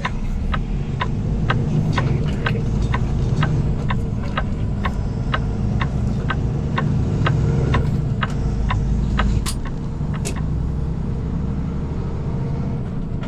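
Loaded semi truck's diesel engine running with a steady low drone, under a regular ticking about twice a second that stops near the end, followed by two sharper clicks.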